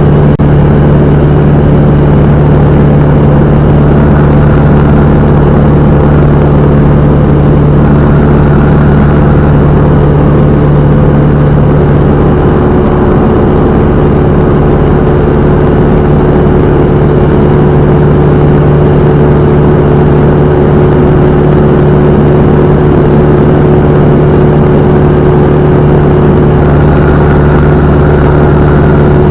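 Cessna 172M's four-cylinder Lycoming O-320 piston engine and propeller, a loud, steady drone. The note shifts slightly about twelve seconds in.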